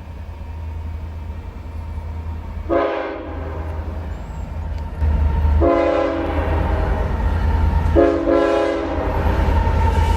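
Approaching CSX freight train's diesel locomotive sounding its multi-note air horn in three blasts of about a second each, over a low engine rumble that grows louder as it nears.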